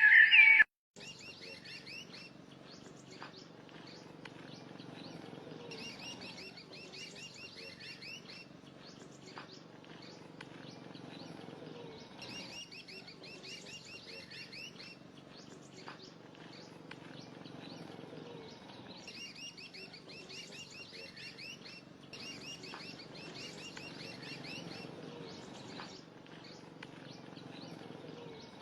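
Birds chirping in repeated short trilled phrases over a steady low background noise, starting about a second in.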